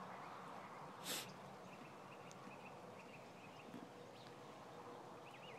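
Quiet barn stall with faint bird chirps and short warbling trills, and one brief rustle-like burst of noise about a second in.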